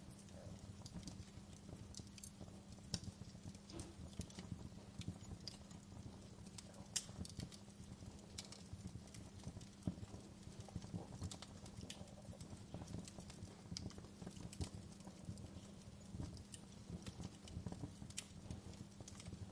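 Wood fire burning in a fireplace, crackling with frequent irregular pops and snaps over a steady low rumble; a few sharper pops stand out, about three, seven and ten seconds in.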